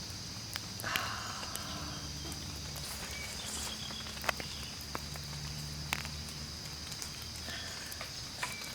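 A steady, high insect chorus, with scattered light clicks and taps over a low rumbling background.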